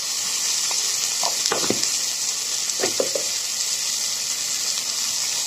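Onions, tomatoes, garlic and green chillies frying in oil in a nonstick pan: a steady sizzle.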